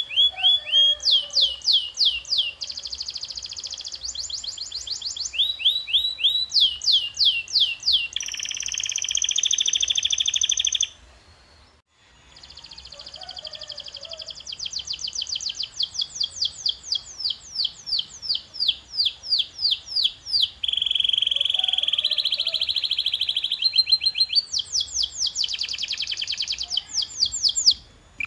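Domestic canary singing its long song: phrase after phrase of rapidly repeated high, sweeping whistled notes, with a sustained buzzy roll about 8 to 11 seconds in and another around 21 seconds. The song breaks off briefly after about 11 seconds, then resumes.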